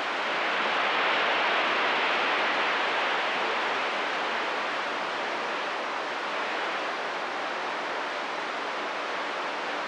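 Steady hiss of radio static from a CB receiver with the squelch open, heard between transmissions.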